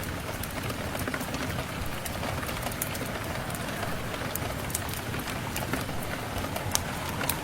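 Steady rain falling, mixed with scattered sharp crackles and pops from a wood fire in a fireplace.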